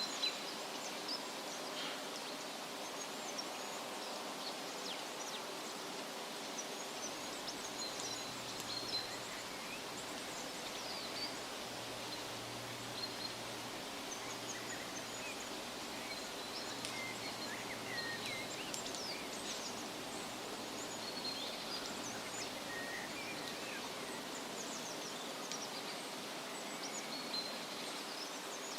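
Steady rustling of wind through leaves, with small birds chirping and whistling on and off throughout.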